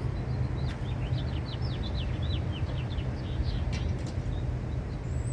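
Small birds chirping: a quick run of short, high, downward-sliding chirps, over a steady low rumble.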